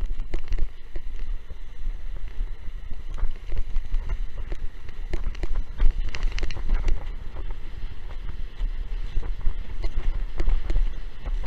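Strong wind buffeting the microphone while a windsurf board runs through choppy water, with frequent irregular slaps and splashes of water against the board.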